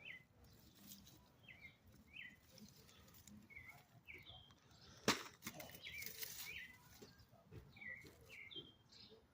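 A small bird chirping faintly over and over, short hooked notes coming about once or twice a second, over a low rustle. One sharp click about five seconds in.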